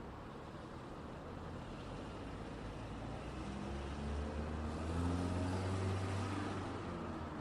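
Road traffic with one motor vehicle passing close: its engine hum and tyre noise build steadily and are loudest about five to six seconds in, then ease slightly.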